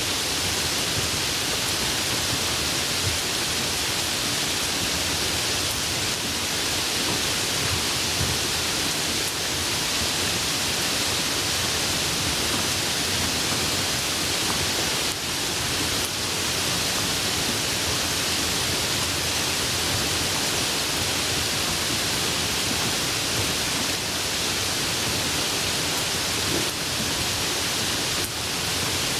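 Tropical rain falling steadily, an even hiss with no change in strength.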